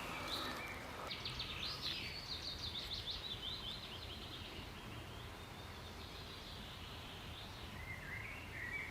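Spring forest ambience with a songbird singing one quick run of short, high notes starting about a second in and lasting a couple of seconds, then a few soft chirps near the end over a faint low rumble.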